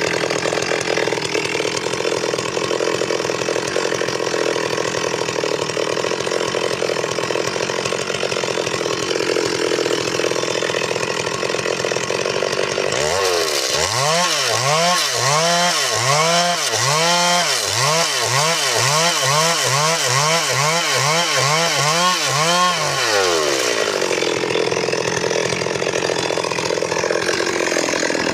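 Stihl MS382 two-stroke chainsaw running at a steady speed. For about ten seconds in the middle its pitch rises and falls over and over, a little more than once a second, then it settles back to a steady pitch.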